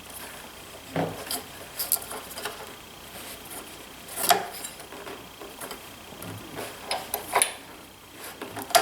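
Irregular clicks and light knocks of a planer's rubber drive belt being worked off its pulley by hand, with some rubbing in between.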